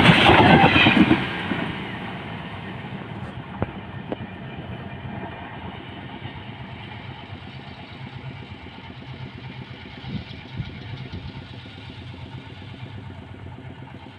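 Electric passenger train running on the rails: loud for about the first second, then dropping to a steady, quieter rumble with scattered faint clicks.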